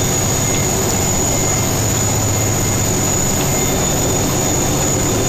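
Plow truck's engine and road noise heard steadily from inside the cab, a low hum with a thin high-pitched whine held constant over it.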